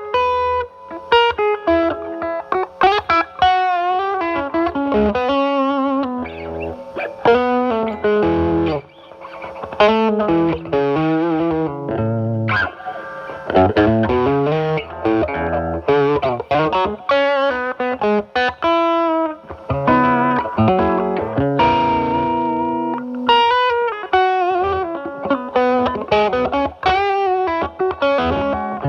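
Electric guitar, a Stratocaster with single-coil pickups, played through a Paul Cochrane Timmy overdrive pedal into a Marshall Valvestate amp's drive channel, with the guitar's volume rolled back to clean up the tone. It plays continuous improvised single-note lines and chords in a lightly overdriven tone.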